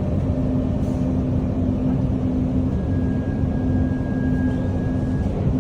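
Dubai Metro train running, a steady rumble with a constant low hum. A faint thin high tone sounds through the middle.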